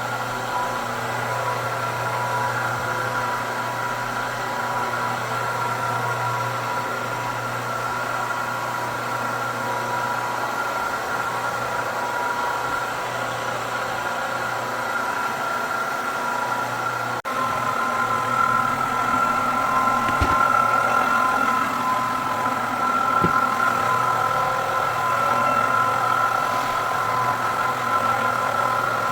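Electric floor buffer running steadily with a sanding screen on a hardwood floor, abrading the old finish before recoating. About two thirds of the way through the sound changes abruptly and gets a little louder, with a couple of faint ticks after.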